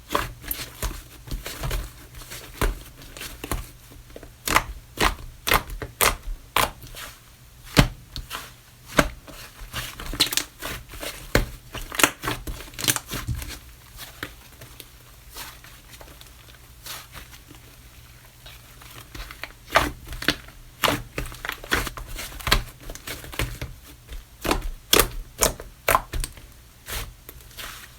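Slime being squeezed, pressed and poked by hand, giving irregular sharp clicks and crackles of air pockets popping, with a sparser stretch about midway.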